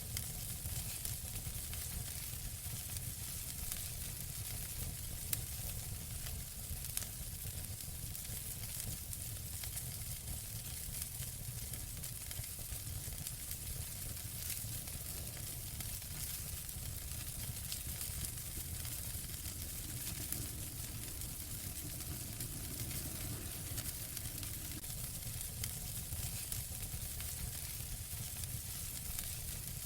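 Wood fire in a fireplace crackling and hissing steadily over a low rumble, with scattered small pops and a couple of sharper ones.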